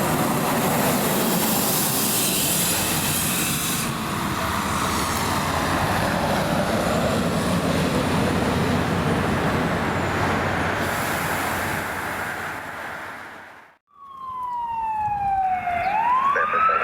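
A loud, steady rush of vehicle noise cuts off abruptly about fourteen seconds in. Then an emergency vehicle's siren sweeps down in pitch, rises again and begins a slow fall, in a wail pattern.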